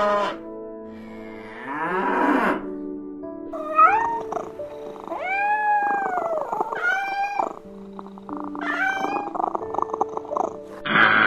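Domestic cat meowing several times, drawn-out calls that rise and fall in pitch, over background music with sustained notes.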